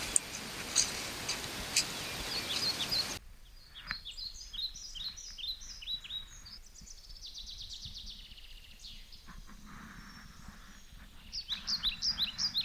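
Several songbirds chirping and singing in woodland at dawn, short high whistles and chirps, with a quick repeated series near the end. For about the first three seconds a steady hiss covers them, then cuts off suddenly.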